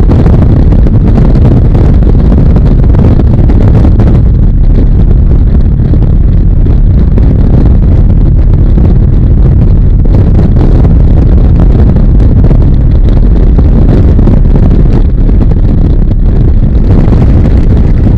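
Steady, very loud wind rush on the microphone of a Harley-Davidson motorcycle under way, mixed with its engine and road noise.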